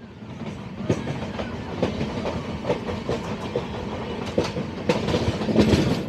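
Moving passenger train heard from on board: steady running noise of the coach with irregular wheel knocks and clatter over the track, louder towards the end.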